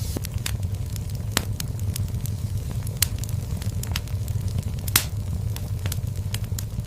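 Wood fire burning in a fireplace: a steady low rumble of flames with irregular sharp crackles and pops, three of them louder than the rest.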